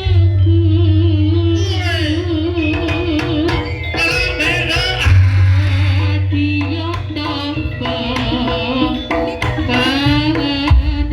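Live jaranan ensemble music: hand drums beating under a wavering, ornamented melody line, over a low steady drone.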